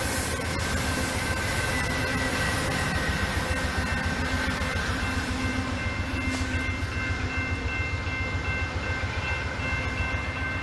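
Amtrak Downeaster passenger train receding after passing a grade crossing: a steady low rumble with several steady high tones over it.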